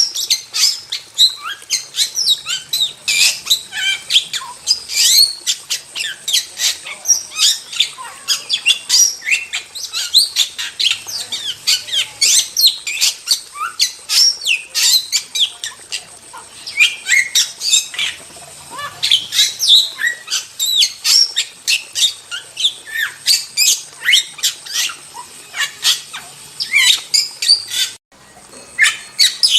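Starling (jalak) song: a dense, continuous run of quick, sharp whistles, chatters and squawks with no pauses, broken once by a sudden gap of well under a second near the end.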